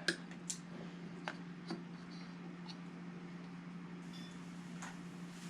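A few faint, scattered clicks and taps as a generator's gas regulator is opened and its parts handled, over a steady low hum.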